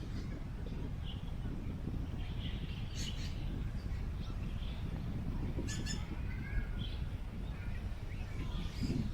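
Outdoor wind ambience with a steady low rumble of wind on the microphone, under scattered short bird chirps and calls, including two harsher calls about three and six seconds in.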